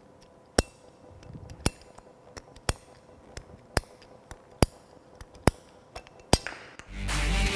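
Hand-held plastic pipe cutter working through a plastic pipe, its blade pressed toward the anvil: a series of sharp clicks roughly once a second. Music comes in near the end.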